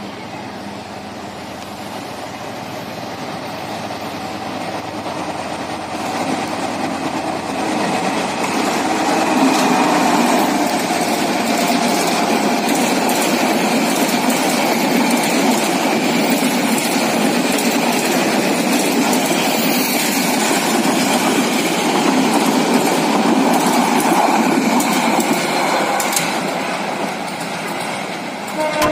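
Diesel-hauled intercity passenger train approaching and passing close by: the locomotive's engine grows louder over the first eight or nine seconds, then a long line of carriages rolls past with a steady wheel rumble and repeated clatter over the rail joints, easing off near the end.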